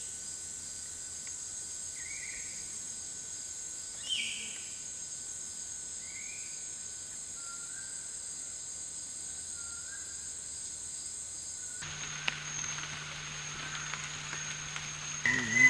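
Tropical forest ambience: a steady, high-pitched insect buzz, with an animal giving a short call about every two seconds and a few fainter, lower notes. About twelve seconds in the background changes abruptly to a different steady hiss with a thin high tone.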